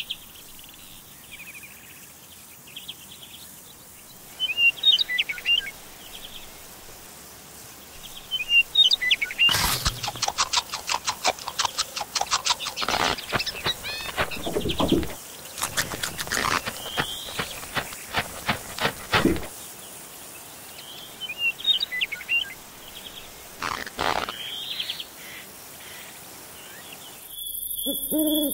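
Birdsong chirps, then a long run of rapid, irregular crunching clicks, cartoon Foley of a worm chewing through an apple. Near the end it changes to a steady high trill with an owl starting to hoot.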